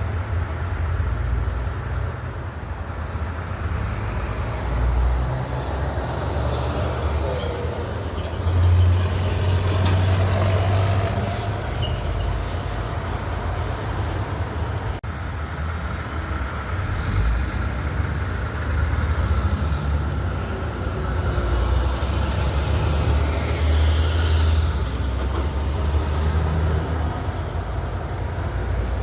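Heavy trucks rumbling as they drive past in traffic, the low engine drone swelling and fading as each passes, with a stretch of hissing noise a little past two-thirds of the way through.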